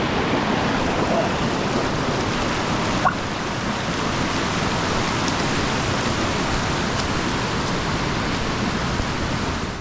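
A mountain creek swollen with spring snowmelt, rushing in a steady, loud roar of fast water, with a single brief click about three seconds in.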